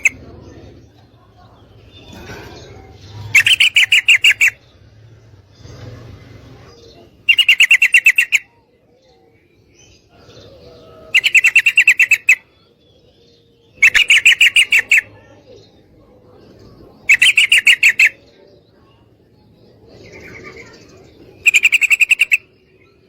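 Female sooty-headed bulbul calling: six loud, rapid chattering bursts of about a second each, repeated every three to four seconds, with fainter calls in between. It is a female's call that lures males into answering song.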